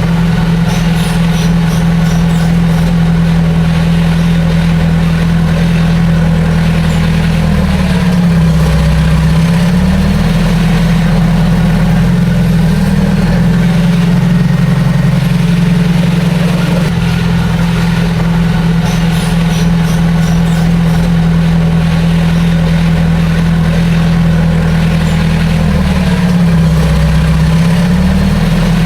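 Heavy diesel engine of a bulldozer running loud and steady, its pitch dipping briefly twice, about eight seconds in and again near the end. Light clicking comes through near the start and again past the middle.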